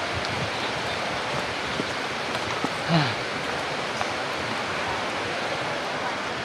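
Steady heavy rain falling on concrete stands and plastic seats, an even hiss of water. A brief voice sounds about three seconds in.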